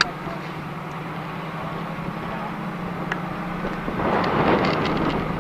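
Steady rushing of a mountain stream, swelling louder for about a second near the end, with a faint steady low hum underneath.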